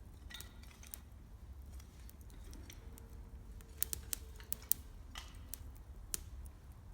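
Wood campfire crackling: scattered sharp pops and snaps, with a quick run of them about four seconds in, over a steady low rumble.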